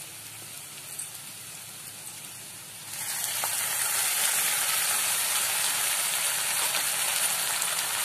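Browned onions sizzling faintly in oil in a kadai; about three seconds in, a freshly ground wet masala paste of onion, garlic and ginger is dropped into the hot oil and a loud, steady sizzle takes over.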